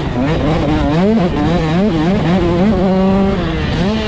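Dirt bike engines running hard on the track, the pitch repeatedly climbing as the throttle opens and dropping back at each shift or roll-off.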